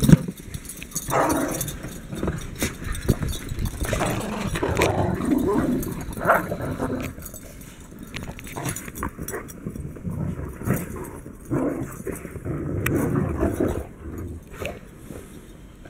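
Dogs growling and barking in irregular bursts.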